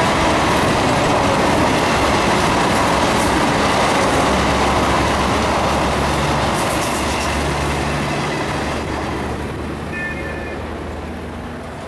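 An Indian Railways express train's passenger coaches rolling past on the rails, a steady rush of wheel and track noise that slowly fades as the last coaches pull away.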